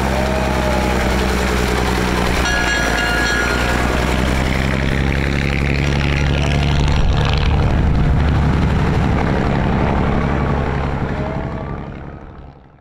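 Propeller drone of North American AT-6/SNJ trainers' nine-cylinder Pratt & Whitney R-1340 radial engines running steadily, swelling louder past the middle, then fading out to silence in the last second or two.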